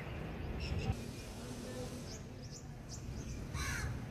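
Low background rumble outdoors with scattered short, high chirps like insects, and a brief hiss about three and a half seconds in.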